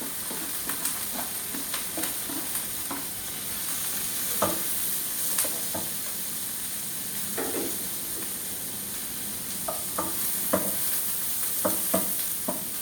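Onion sizzling in hot oil in a pan as it is sautéed, with a spatula stirring and now and then clicking and scraping against the pan, several clicks close together near the end.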